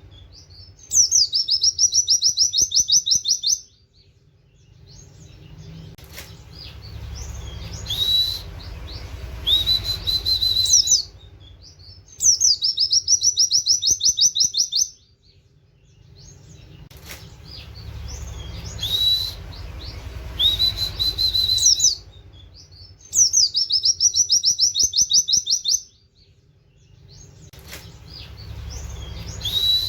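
Pleci (white-eye) singing in loud, high-pitched bursts of rapid 'wit wit' canary-style notes, each about three seconds long, coming back about every eleven seconds in the same pattern, with softer twittering and a low background rumble between.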